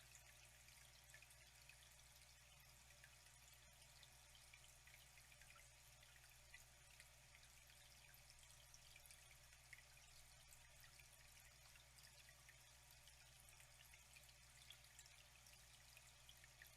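Faint, steady trickle of flowing water with many small drip and splash ticks, over a steady low hum.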